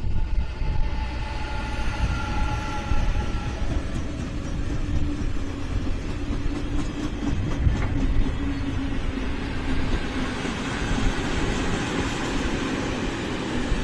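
A freight train passing close behind a Siemens Vectron electric locomotive: a high whine from the locomotive fades out over the first few seconds, then the wagons roll by with a steady rumble of wheels on rail.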